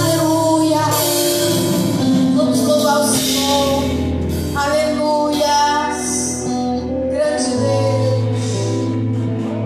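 Live gospel worship music: voices singing a slow melody over held keyboard chords and a steady bass.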